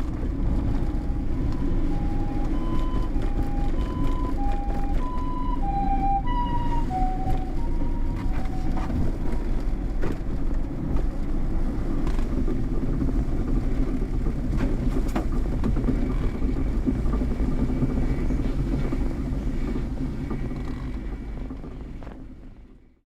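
Steady low rumble. Over it, in the first nine seconds, a short electronic chime melody of notes stepping between two pitches. The whole sound fades out near the end.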